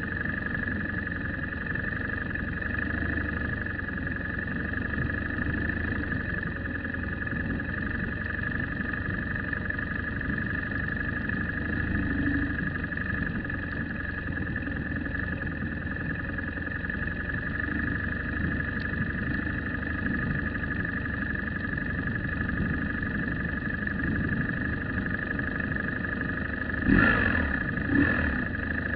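A car driving, with steady engine and road rumble and a constant high whine over it. Two loud knocks about a second apart near the end.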